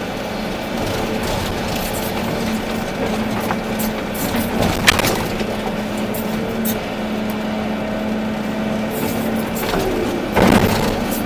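Volvo EC380D excavator's diesel engine running steadily, with a sharp knock about halfway and a louder rush of noise near the end.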